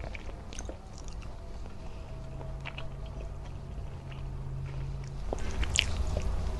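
Close-miked eating sounds: chewing squid adobo and rice, with wet mouth clicks and fingers squishing and gathering sticky rice on the plate. A low steady hum runs for about three seconds in the middle, and a sharp cluster of wet clicks comes near the end.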